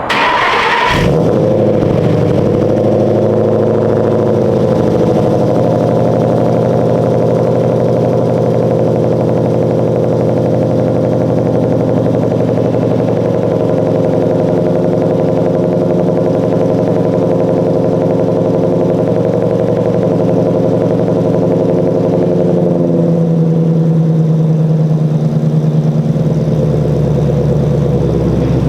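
2013 Ford Mustang GT's 5.0 Coyote V8 cold-starting, catching within about a second, then running at a steady fast cold idle. About 23 seconds in, the idle settles lower.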